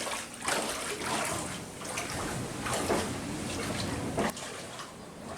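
Seawater from high waves splashing and sloshing, with several sharper splashes at uneven intervals.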